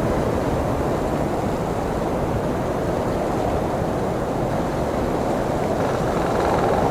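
Blizzard wind blowing as a steady, deep rushing noise, swelling slightly near the end.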